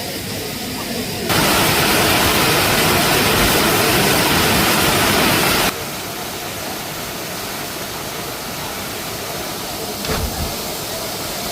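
Waterfall: a steady rush of falling water. It turns much louder for about four seconds, starting and stopping abruptly, and there is a brief low knock near the end.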